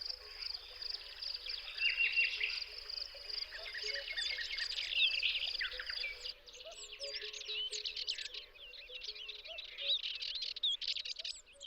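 Songbirds singing in quick chirping phrases that rise and fall, over a steady high insect trill. The trill cuts off about halfway through, where the background changes, and the birdsong carries on.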